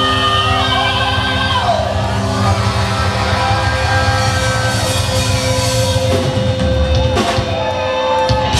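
Live hard-rock band, electric guitars and drum kit, playing the closing bars of a song with long held notes, and a loud crash about seven seconds in.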